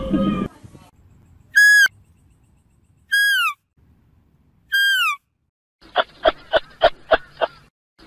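Chital (spotted deer) calling three times, about a second and a half apart: shrill whistled calls that each drop in pitch at the end. Near the end a fast run of short, harsh pulses follows, about three or four a second. Just at the start, the tail of a deep bellowing call fades out.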